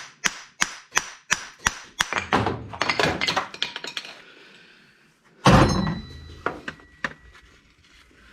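Hammer blows on the angle grinder's metal housing clamped in a vise, about two a second, running into a quick clatter of strikes. About five and a half seconds in, one loud crash with a ringing tail as the part kicks out of the vise, followed by a few light metallic clinks.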